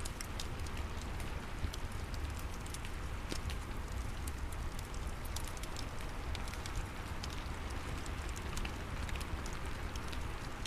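Steady rain falling, with a fireplace crackling in irregular sharp pops over it.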